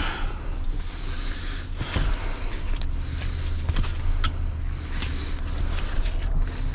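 A heavy truck engine idling with a steady low hum, with scattered light clicks and rustles of rigging being handled.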